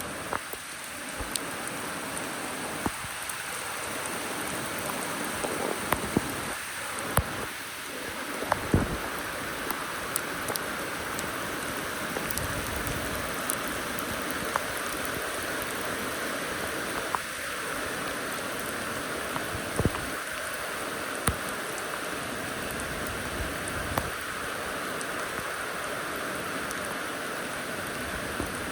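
Steady rain hissing, with heavy drops ticking sharply on hard surfaces at irregular moments.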